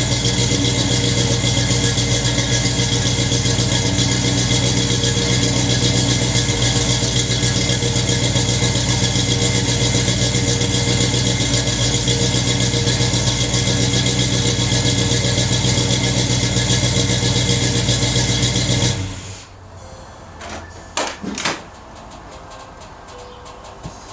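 1968 Pontiac Beaumont's 350 cubic-inch V8, breathing through Thrush welded mufflers with an X-pipe, running at a steady idle after its first start of the year. It is switched off about 19 seconds in and stops abruptly, followed by a couple of short clicks.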